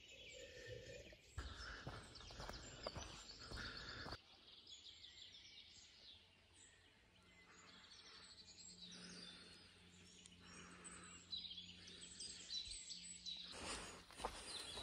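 Faint bird chirping over quiet outdoor background noise, almost silent through the middle.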